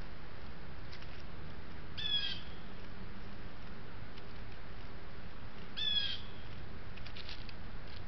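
A wild bird giving two short calls about four seconds apart.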